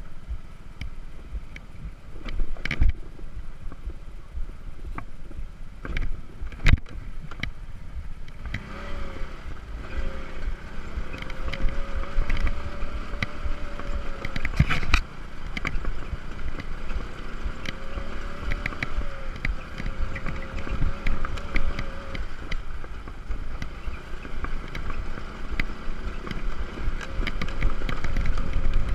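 Motor scooter riding over a rough, stony sand track: steady low rumble and wind noise with a faint engine whine that rises and falls, broken by a few sharp knocks from bumps.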